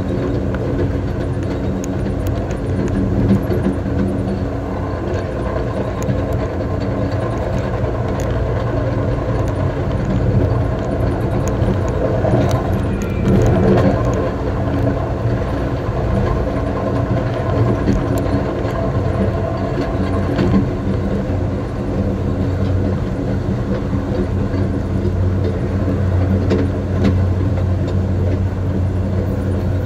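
Passenger train running at speed, heard from its rear car: a steady rumble of wheels on the rails with a constant low hum.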